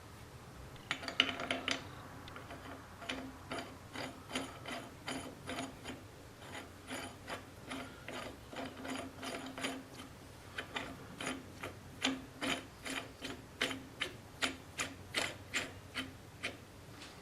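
Rhythmic mechanical clicking in a workshop, about two short metallic strokes a second, with brief pauses near six and ten seconds in.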